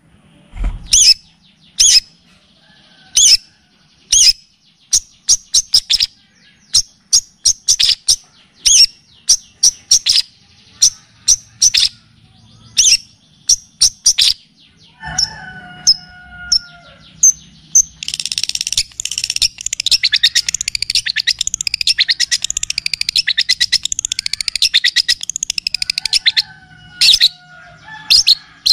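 Recorded songbird song of the kind used as training audio for a long-tailed shrike: sharp high chirps repeated at irregular intervals, a few lower warbled notes around the middle, then a long, rapid, dense trill for about eight seconds before the chirps return.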